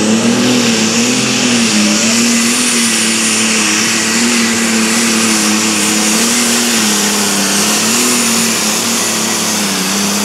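Competition pulling vehicle's engine running at full throttle, held at steady high revs with a slight waver during a pass down the track, with a high thin whine over it. It cuts off at the end.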